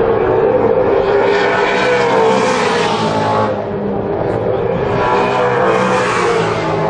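V8 Supercar race engines running at racing speed, loud, with the pitch shifting and the sound swelling twice as the cars come through.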